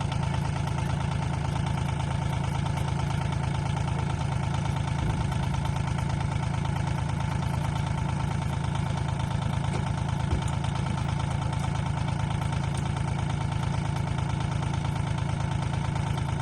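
A machine running steadily, with a deep, fast even pulse and no change in speed.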